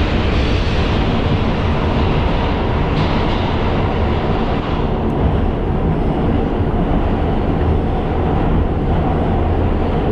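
R142 subway train running at speed, heard from inside the car: a steady loud rumble of wheels on rail and traction motors.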